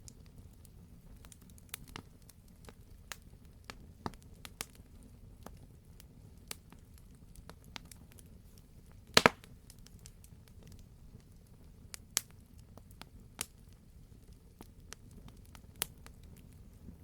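Wood fire crackling in a fireplace: a low steady rumble with scattered sharp pops, and one loud double pop about halfway through.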